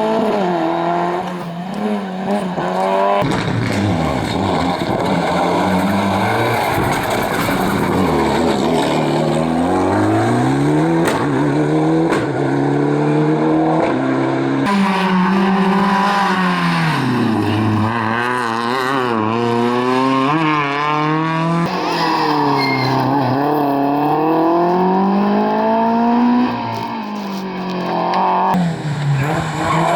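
Rally car engines at full throttle, the revs climbing and dropping over and over with gear changes and lifts. Several short runs cut together, the sound changing suddenly at each cut.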